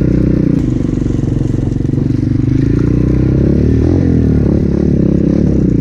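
200cc Avantis pit bike engine running while being ridden, its pitch dipping and rising as the throttle changes.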